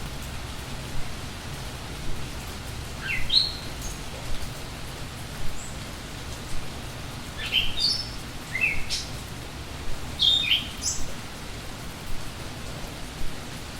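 Steady rain with irregular louder drops. Songbirds give short, rising chirps in three brief bursts: once near the start, a cluster in the middle and another toward the end.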